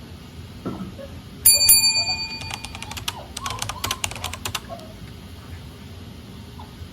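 A sudden loud metallic clang that rings on briefly, followed by about three seconds of rapid metal rattling and clicking that stops abruptly.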